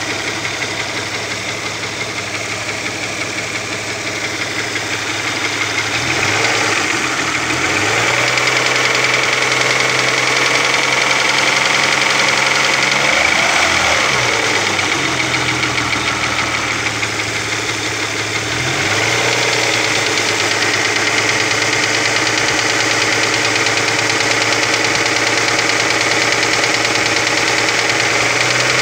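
Opel Omega B V6 engine running with a knock that the owner puts down to the exhaust camshaft on the second cylinder head. Engine speed rises a few seconds in, dips and recovers about midway, and shifts again shortly after.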